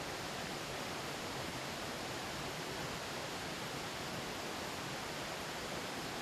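A river burbling over rocks, as an even, unbroken rush of water.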